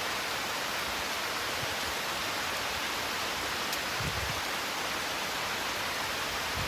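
Steady rain falling, a constant even hiss with no drops standing out.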